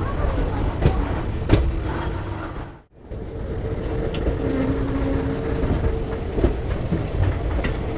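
Passenger train running on the rails: a steady rumble with scattered clicks of wheels on track joints. The sound drops out briefly just before three seconds in, then resumes.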